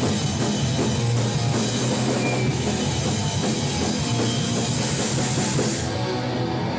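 Hardcore band playing live: electric guitars, bass and drum kit in a loud, steady passage without vocals.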